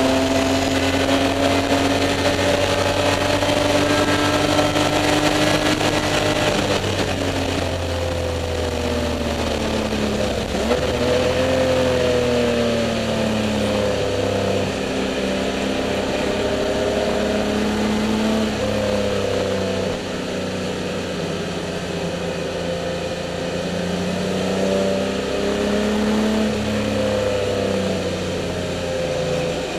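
Spec E30 BMW race car's straight-six engine, heard from inside the stripped cockpit at racing revs. It holds a steady high pitch for the first several seconds, then the pitch falls and rises again and again as the driver lifts, brakes and accelerates through corners.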